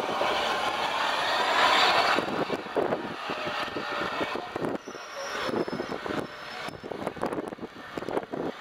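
Steam-hauled train of carriages rolling past at low speed: a loud rushing hiss for the first two seconds, then a quieter rumble with short clicks of wheels over the rails.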